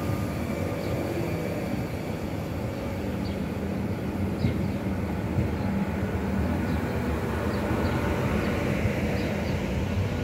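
Renfe Media Distancia passenger train moving slowly alongside the platform: a steady running noise with a low hum, and faint short high squeaks now and then.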